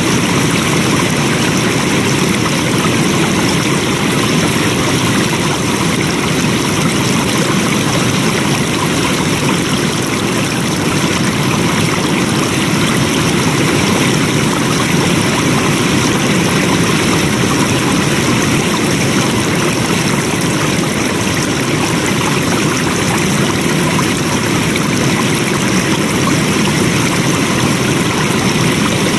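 Flowing water running in a steady, unbroken rush.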